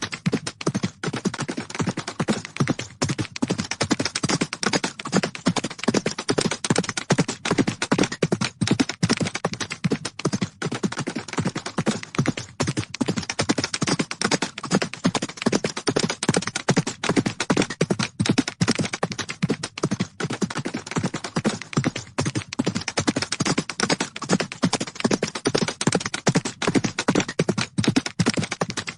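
Horses galloping: a dense, rapid, unbroken drumming of hoofbeats on the ground.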